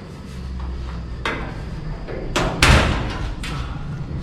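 A few knocks and clunks of metal door-latch hardware being handled and fitted against a truck door, the loudest about two and a half seconds in, over a steady low hum.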